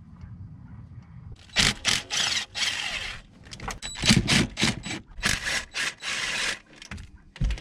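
A quick, irregular run of loud scraping and rustling handling noises, starting about a second and a half in.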